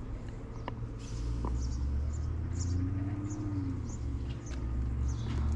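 Station ambience: a steady low rumble with small birds chirping in short, repeated high notes, and a faint tone that rises and falls about halfway through.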